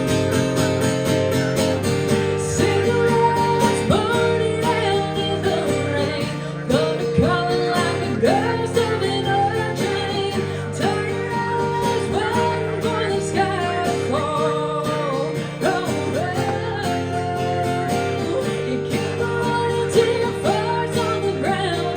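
Live country band playing an instrumental break over a steady strummed acoustic guitar, with a lead line that slides up into its notes again and again.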